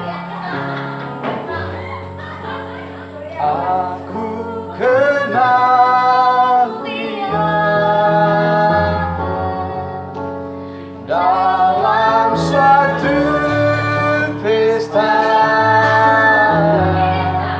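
A child singing a slow song in long held phrases over instrumental accompaniment.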